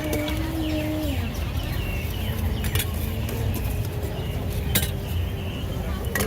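Open-air market ambience: a steady low rumble with faint distant voices and a few sharp clinks, one about halfway through and one near the end.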